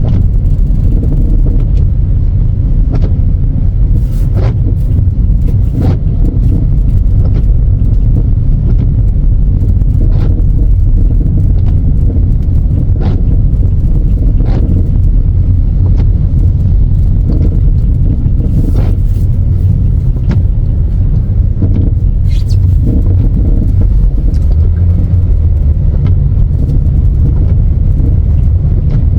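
Loud, steady low rumble with scattered light clicks and knocks.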